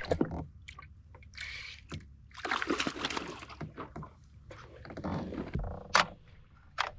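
Water splashing and sloshing at a kayak while a freshly caught small snook is handled, with a few sharp knocks, the loudest about six seconds in.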